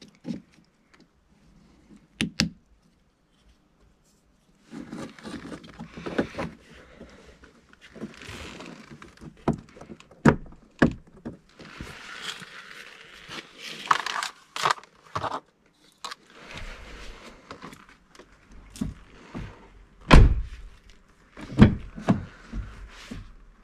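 Hands working on a car's puddle lamp: scattered clicks, knocks and handling noise as the small lamp unit is taken out and a new one is pressed into place. The sharpest knock comes about twenty seconds in.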